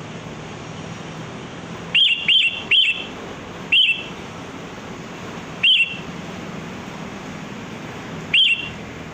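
Sooty-headed bulbul giving short, sharp calls: three in quick succession about two seconds in, then three single calls spaced one to three seconds apart, over a steady low hum.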